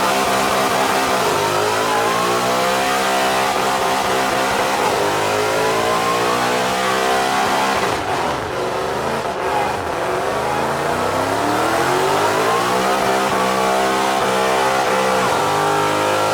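A Mustang's V8 engine held at high revs during a burnout. The pitch climbs and falls several times, drops briefly about halfway through, then climbs again and holds high near the end.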